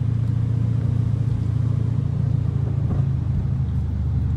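Dodge Challenger R/T's 5.7-litre Hemi V8 (the "345") running low and steady while the car drives slowly, heard from inside the cabin.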